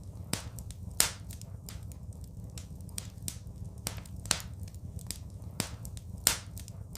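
Wood fire in a fireplace crackling: irregular sharp pops and snaps over a steady low rumble of the burning, with louder cracks about a second in and near the end.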